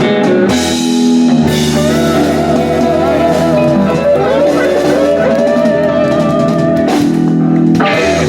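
Live blues-rock band with guitar and drum kit ending a song: drum hits land on a long held final chord while a guitar lead line bends over it, and the band cuts off together near the end.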